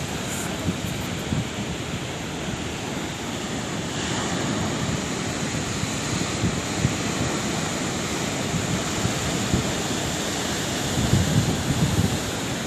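Sea waves breaking and washing ashore: a continuous rush of surf with rough low rumbling, a little louder from about four seconds in and louder again near the end, with wind buffeting the microphone.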